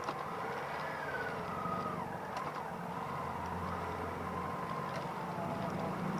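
Vehicle engine running, its pitch sliding up and down.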